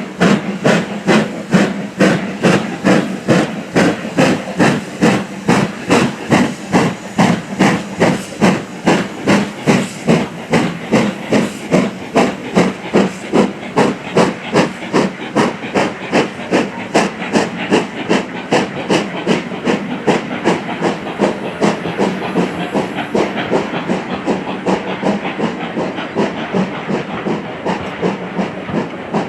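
Steam locomotive working hard, its exhaust chuffing in an even beat of about two to three a second over a steady hiss of steam. The beats become fainter and less distinct in the last third.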